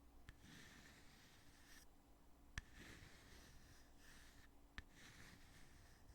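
Heavy lid of a cosmetic foundation container being opened and closed: sharp, faint snapping clicks, three in all, the loudest about two and a half seconds in, with a soft rubbing scrape between them.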